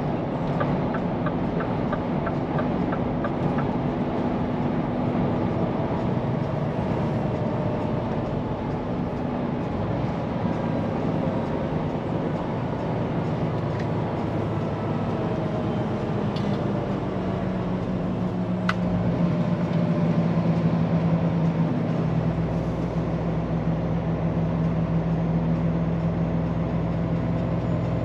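Scania P410 truck's diesel engine running on the road, with steady road noise; the engine note shifts about two-thirds of the way through. A short run of even ticks, about three a second, sounds in the first few seconds.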